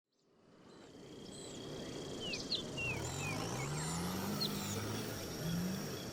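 Outdoor ambience fading in about a second in: a distant engine rising in pitch again and again in short surges, over a low rumble, with scattered bird chirps and steady high-pitched tones.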